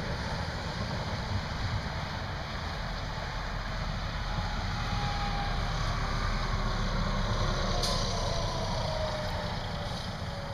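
Steady low rumble of vehicle engine and road noise. In the middle a faint whine slowly falls in pitch, like a vehicle passing, and there is a single short click near the end.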